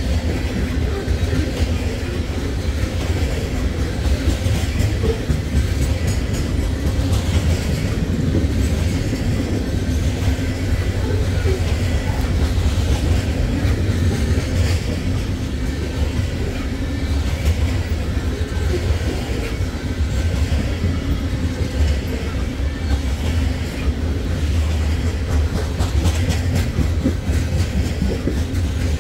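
Loaded coal train rolling steadily past, the wheels of the heavy freight cars on the rails making a continuous low rumble that neither builds nor fades.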